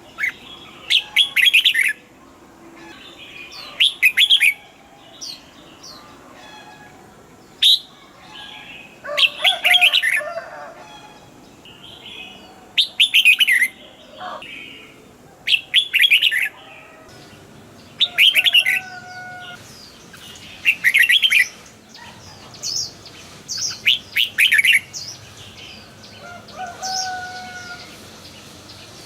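Red-whiskered bulbuls singing: short, bright, warbling phrases, one every two to three seconds.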